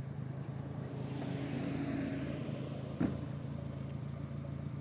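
Car engine idling steadily, with a single sharp thump about three seconds in.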